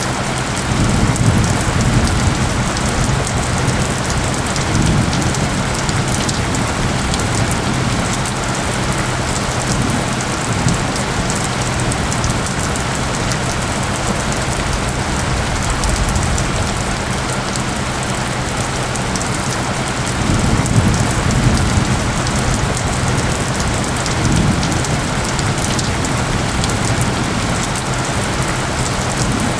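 Steady rain falling, with low tones held underneath. Deeper rumbles swell twice, about a second in and again around twenty seconds in.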